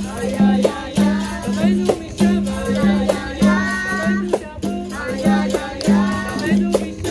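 Capoeira roda music: a berimbau with its caxixi rattle and hand percussion keeping an even beat, with voices singing over it.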